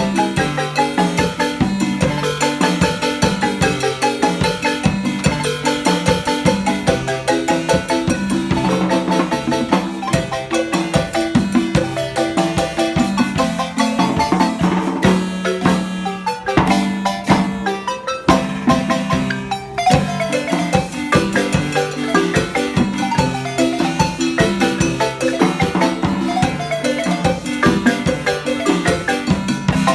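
Marimba music played live: quick mallet notes over a bouncing bass line, with drums keeping the beat.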